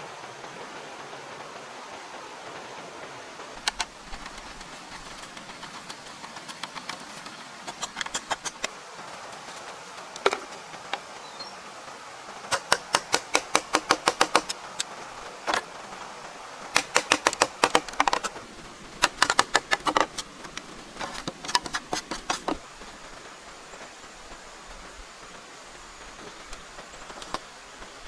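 Quick runs of sharp knocks, about six a second, coming in several bursts over a steady background hiss.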